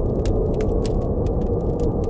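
Steady, deep blizzard wind, with a campfire crackling over it in frequent small sharp pops.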